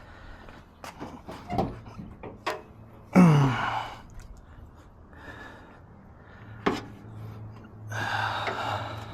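Scattered clicks and knocks of hands working on car parts, with one loud, short groan falling in pitch about three seconds in. A low steady hum comes on about seven seconds in.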